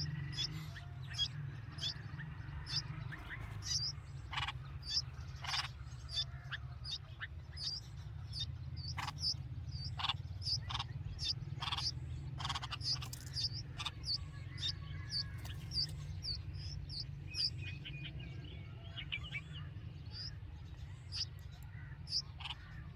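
Red-vented bulbuls chirping at the nest: a long run of short, high chirps, two or three a second, over a steady low rumble.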